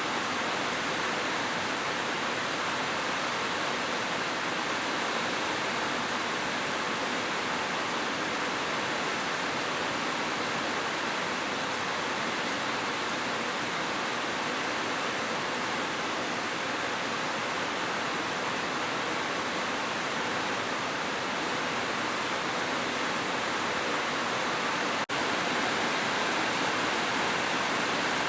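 Heavy rain falling steadily, a dense, even hiss with no separate drops standing out. Near the end it drops out for a split second.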